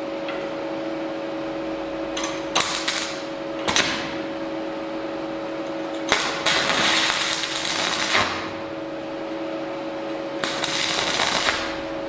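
MIG welder laying short tack welds on steel: five crackling, hissing bursts, the longest lasting nearly two seconds, over the steady hum of the running machine.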